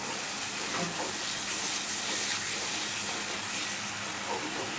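Curry masala for a fish kalia sizzling in hot oil in a pan, a steady even hiss.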